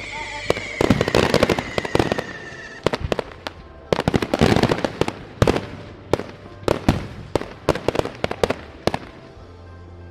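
Fireworks going off: a dense run of sharp bangs and crackling bursts, with a long falling whistle over the first few seconds. The bangs thin out and stop about nine seconds in.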